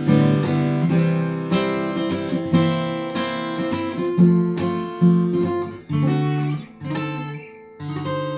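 Acoustic guitar playing an instrumental break of a blues tune, picked notes and strums with a fresh attack roughly every half second to second.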